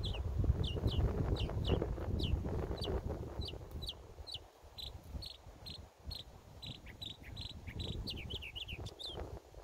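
A bird calling over and over: short, sharp downward-slurred notes about two a second, changing midway to a run of flatter, buzzier notes and back to quick slurred notes near the end. A low rumble sits under the calls in the first few seconds and again near the end.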